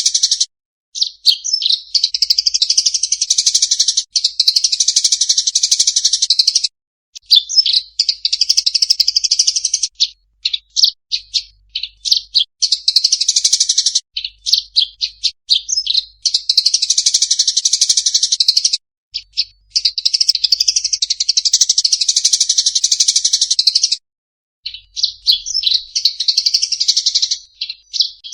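Songbird singing in long, rapid, high-pitched phrases of several seconds each, broken by short pauses and runs of quick separate chirps; a clear, clean recording of competition-bird song.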